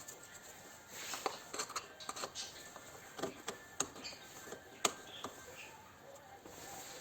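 Irregular light clicks and taps, a few to the second at most, like small hand tools and parts knocking against metal.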